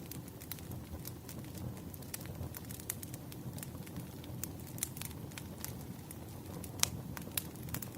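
Wood fire burning, a low steady rumble under frequent sharp crackles and pops, one louder pop near the end.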